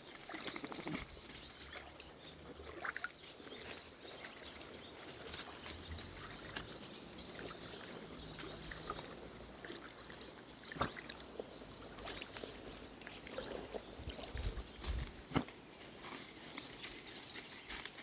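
Shallow creek water trickling and babbling, with scattered splashes and sloshing in the water.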